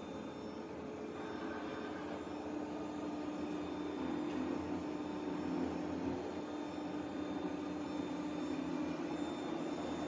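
ECOVACS Deebot T50 Omni robot vacuum running, a steady machine hum with a low tone, a little louder from about four seconds in.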